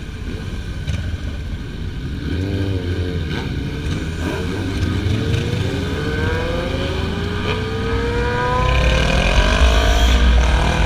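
Motorcycle engine accelerating, its pitch climbing over several seconds, over a steady low rumble of wind and road noise.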